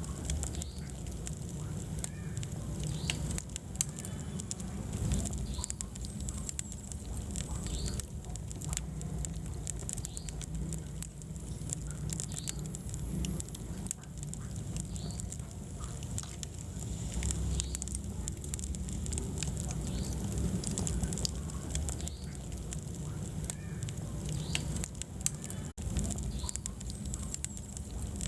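Wood fire burning in a fireplace: a steady low rumble of flames with many small crackles and pops scattered irregularly.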